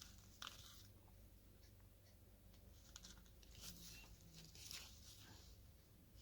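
Near silence with a few faint, short, scratchy swishes of embroidery floss being pulled through cross-stitch fabric.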